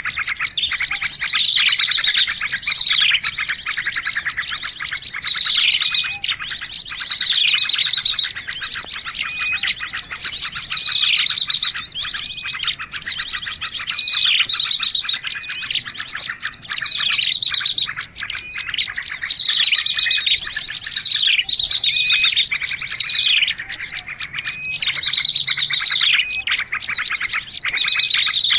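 Dense chorus of small songbirds chirping, with fast high trills and a falling chirp that repeats about every two seconds: a bird-lure recording for attracting small birds.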